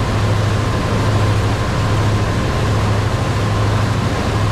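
Cruise boat's engines running with a steady low drone, under a constant rush of noise.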